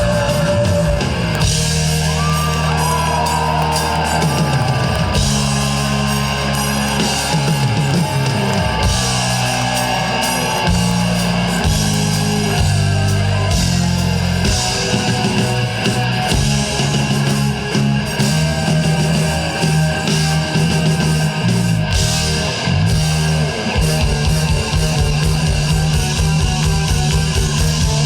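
A live rock band plays an instrumental passage with electric guitar, bass and drums, a gliding guitar lead early on. Near the end the drums switch to a fast, even run of low beats.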